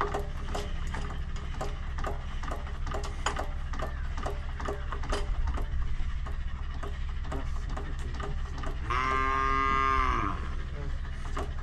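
A cow moos once, a single long arched call about nine seconds in, the loudest sound here, over a steady low machine hum and scattered clicks and knocks.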